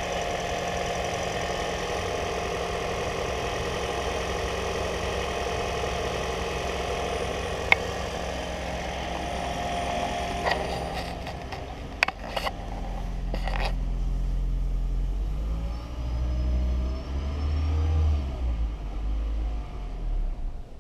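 2015 Toyota Prius 1.8L four-cylinder engine running steadily for about ten seconds. Then several sharp clicks and knocks, after which the even engine note gives way to a low, uneven rumble.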